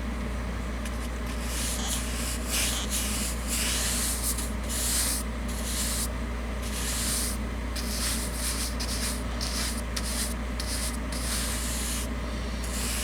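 Paintbrush stroking thinned acrylic paint onto a model building's surface: a run of short scratchy swishes, roughly one a second, over a steady low hum.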